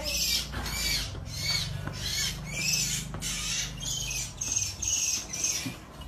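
A small bird, caught by a cat, giving short shrill distress squawks over and over, about two a second, stopping near the end.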